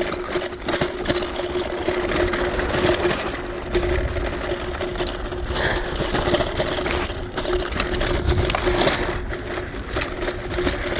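Electric hyperscooter riding over rough trail: a steady motor whine under constant rattling and clattering from the scooter frame and tyres on the bumpy ground.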